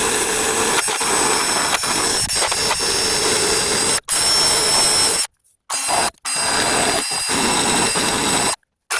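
Handheld power tool with a paint-stripping wheel running against the steel body of a 1988 Ford F-250, grinding off paint with a steady high whine. It stops briefly a few times and starts again.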